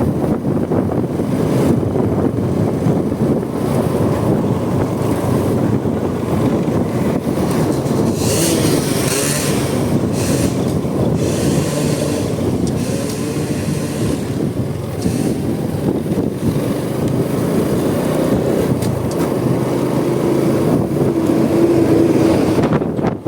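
A Honda Supra X 125 single-cylinder motorcycle being ridden steadily, its engine and road noise mixed with wind buffeting the microphone. A brief rising-and-falling hiss comes about eight seconds in, and a steady tone rises above the engine noise near the end.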